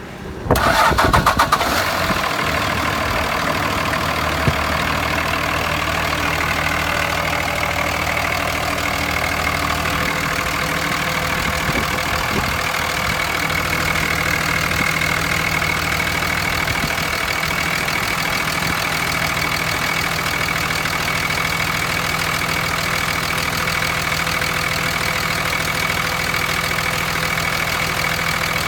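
2003 Dodge Ram's 5.9 L Cummins inline-six turbodiesel cranking and firing up about half a second in, then settling into a steady idle.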